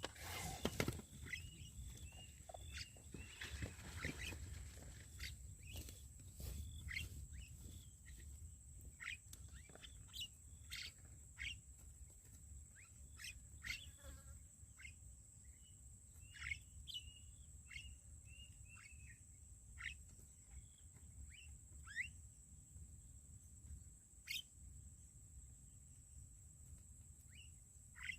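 Birds calling: scattered short, sharp chirps, many sliding downward in pitch, busiest in the first few seconds and then every second or so, over a steady high thin tone and a low background rumble.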